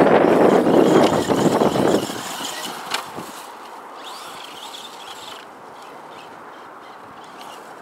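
Wind buffeting the microphone, which dies down about two seconds in. It leaves the faint sound of a Traxxas Slash 4x4 RC truck's electric motor driving over dirt, with a rising whine about four seconds in and one sharp click about three seconds in.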